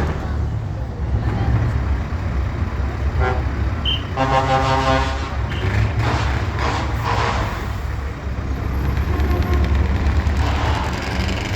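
Truck engines running with a steady low rumble. A truck horn gives a short toot just after three seconds in, then a longer blast of about a second.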